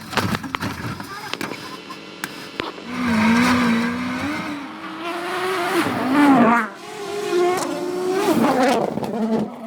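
Rally car engine revving hard, its pitch climbing and falling several times as the driver works the throttle and gears, with a few sharp clicks in the first couple of seconds.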